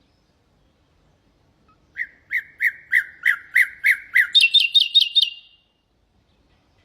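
Common nightingale singing one song phrase. It starts about two seconds in with a string of about eight loud repeated notes, roughly three a second. It then switches to a quicker run of higher notes and stops well before the end.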